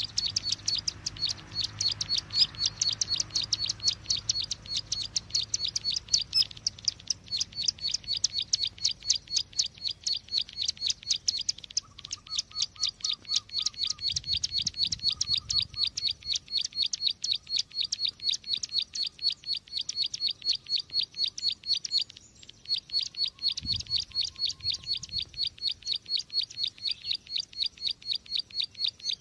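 Bird-trapping lure call of the small field bird known as ciwa, cici glaga or ciblek sawah: a fast, even run of sharp, high chips, several a second, that pauses briefly twice.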